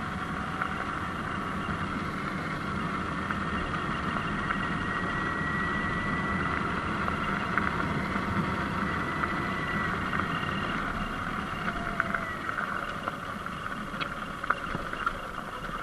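Surron Light Bee electric dirt bike coasting downhill under regenerative braking: a faint electric motor whine that slowly rises and fades, over a steady rush of wind and tyres on a dirt road. A few sharp clicks come near the end.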